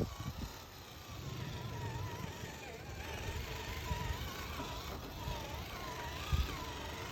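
Axial SCX10 III RC crawler driving: its stock electric motor whines, rising and falling with the throttle, over rumbling and knocking from the tyres and chassis on rough ground, with a heavier thump near the end.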